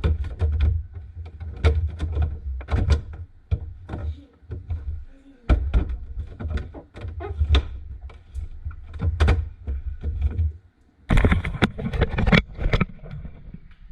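A quick, uneven run of knocks and clunks over a low rumble.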